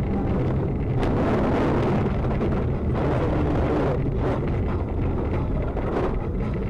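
A car driving: steady engine and road rumble, growing noisier for about a second, around a second in.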